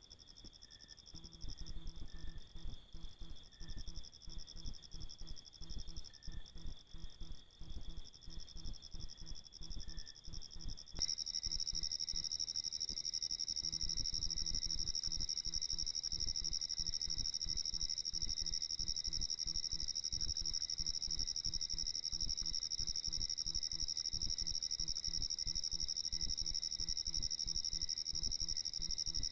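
Steady high-pitched chirring of insects, heard through a camera trap's microphone over a low rumble. About 11 seconds in it switches abruptly to a louder, different insect chorus.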